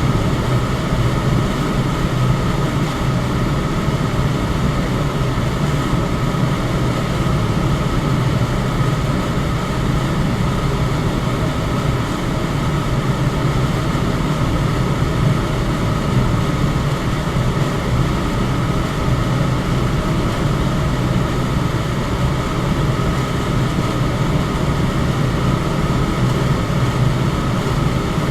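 Electric fan running steadily: an even rush of air over a low hum, with a faint steady higher tone.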